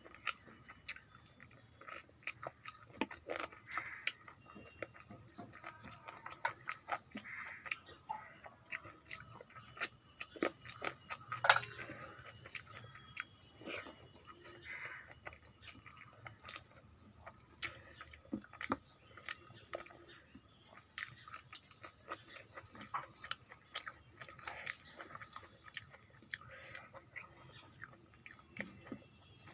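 Close-up chewing and wet mouth sounds of someone eating a meal of rice and curry, with frequent small clicks and smacks. One sharper, louder click comes about eleven and a half seconds in.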